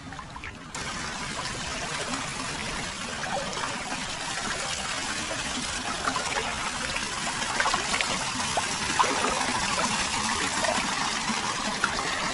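Hot-spring water flowing and splashing steadily into a foot bath, with small droplet plinks through it. It gets abruptly louder about a second in.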